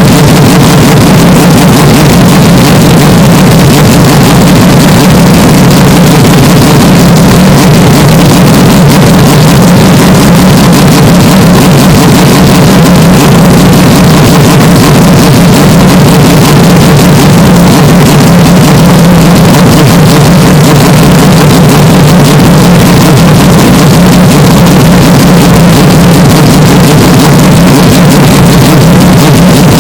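Hyundai Elantra N's turbocharged 2.0-litre four-cylinder engine and exhaust droning steadily at a constant speed, with no revving. The audio is boosted to the point of heavy clipping and distortion.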